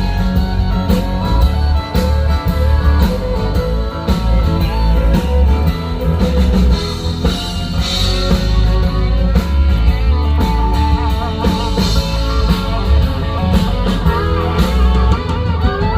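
Live band playing an instrumental break in a country-rock song: electric guitar over bass and a steady drum kit beat, amplified through a PA.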